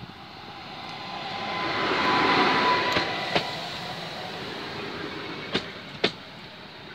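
Electric multiple unit train running past. The rush of wheels on rail swells to its loudest two to three seconds in, with a thin whine at the peak. A few sharp clacks follow as the wheels cross rail joints.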